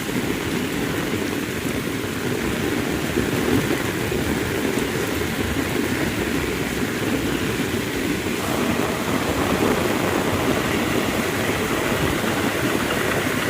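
Heavy rain falling steadily, a constant dense hiss of rain hitting surfaces.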